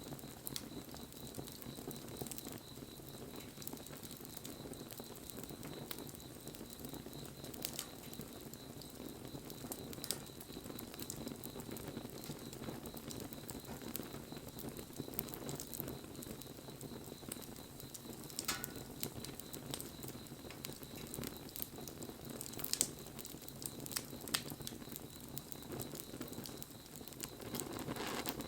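Wood fire burning, with a steady low rush of flames and frequent small crackles and pops, one of them louder about three-quarters of the way in.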